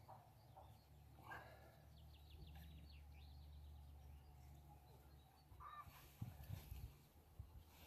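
Faint bird chirps and short rapid twittering over a low steady background rumble, with a few soft knocks near the end.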